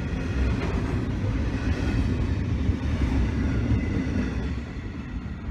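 Container wagons of a freight train rolling past: a steady rumble of steel wheels on rail that fades as the last wagon clears, about four and a half seconds in.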